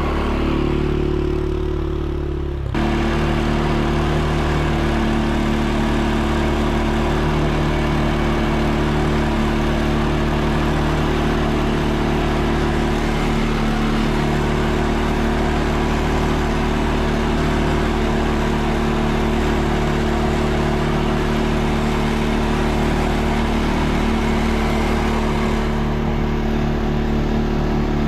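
ATV engine running at a steady pace. A little under three seconds in it gets louder and brighter, then holds even.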